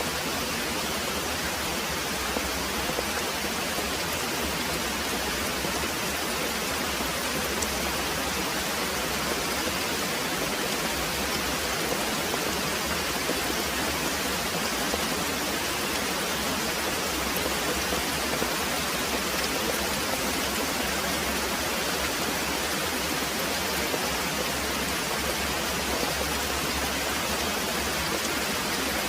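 Very heavy rain pouring steadily, a dense even hiss with no let-up and no distinct thunderclap.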